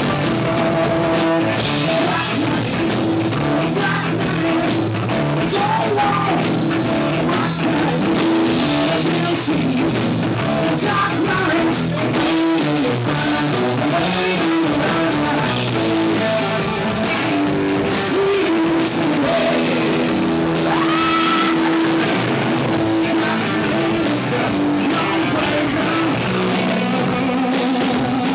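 Rock band playing live: guitars and drums with a singing voice, loud and unbroken.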